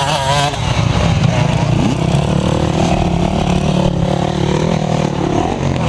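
Motocross motorcycle engines running loudly and continuously.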